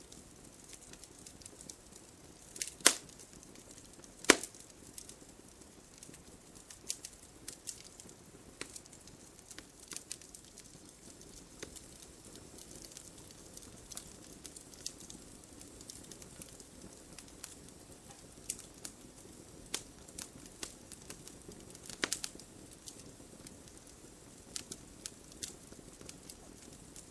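Campfire crackling, with sharp pops and snaps at irregular intervals over a low hiss. Two loud pops come a few seconds in, and a short cluster of snaps about two-thirds of the way through.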